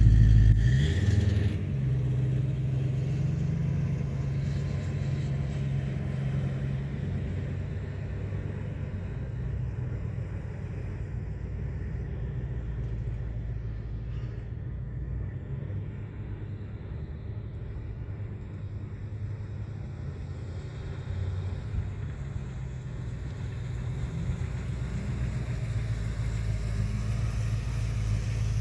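1956 Chevrolet 210's engine starting with a loud burst, then running at a steady idle; the idle sits a little higher for the first few seconds, settles lower, and picks up slightly near the end.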